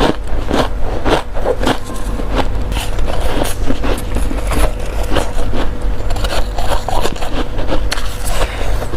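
Freezer frost being bitten and chewed, a rapid run of crisp crunches one after another, over a steady low hum.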